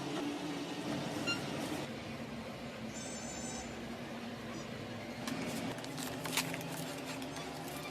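Slime being handled and pressed by hand, with small crackling clicks in the second half over a steady low hum; a brief high beep sounds about three seconds in.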